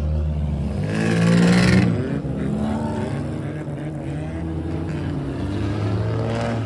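Modified kaido racer cars rolling slowly past with their engines running, one revving up loudly about a second in and the pitch falling away after. Another engine swells again near the end.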